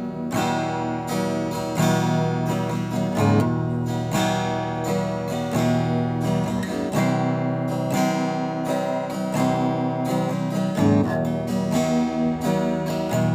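Acoustic guitar strummed in a steady rhythm, playing a chord-based ballad intro.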